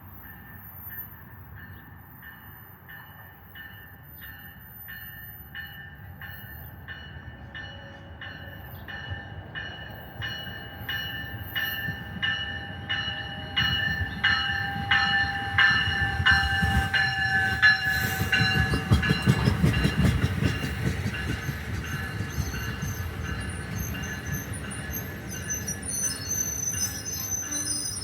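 NJ Transit passenger train approaching and passing, growing louder to a peak a little past the middle and then easing off. It carries a steady rhythmic clicking of wheels over rail joints and a high whine that drops slightly in pitch as it goes by.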